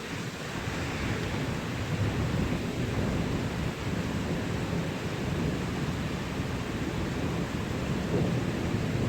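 Low rumbling thunder over steady rain, swelling about a second in and going on without a break.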